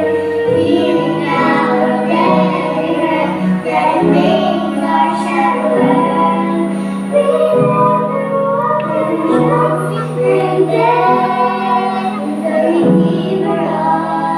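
Young female voices singing a song over instrumental accompaniment with sustained low notes.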